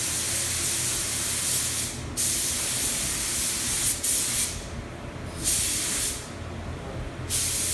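Paint being sprayed in bursts of hiss: two long passes of about two seconds each, then shorter bursts with pauses between them, over a steady low hum.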